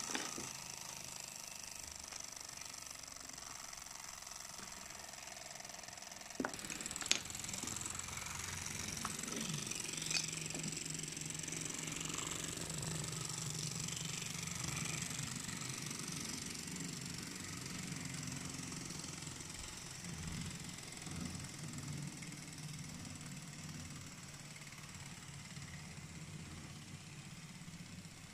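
Small HO-gauge live steam locomotive running: a steady faint hiss with a low hum underneath, and two sharp clicks about six and seven seconds in.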